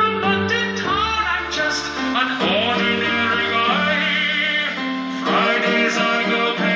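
Live rock music: a male lead vocalist sings over the band's accompaniment, his voice gliding between held notes.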